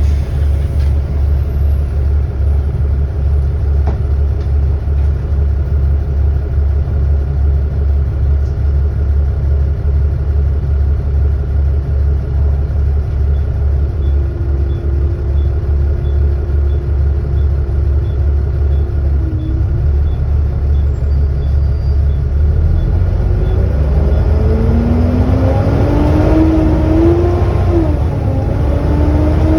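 Volvo B7TL double-decker bus heard from on board: its engine's steady low throb, then from about three-quarters of the way in a whine that rises in pitch as the bus accelerates, dips once at a gear change and climbs again.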